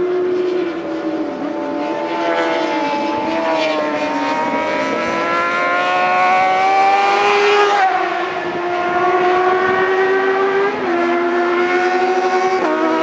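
750cc racing motorcycle engine at high revs, its pitch climbing steadily under acceleration. The pitch drops sharply at gear changes, about eight seconds in and again about eleven seconds in.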